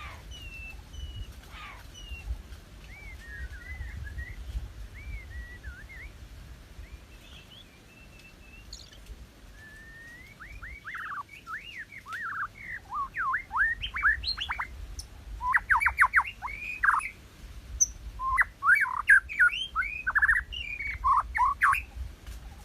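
White-rumped shama singing: soft whistled phrases at first, then from about halfway a loud, rapid run of sweeping notes in quick clusters.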